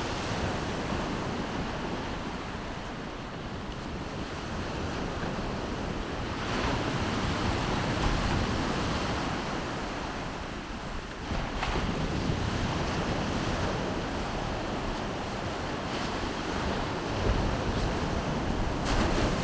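Baltic Sea surf washing onto the shore in a steady rush that swells louder every few seconds as waves come in, with wind buffeting the microphone.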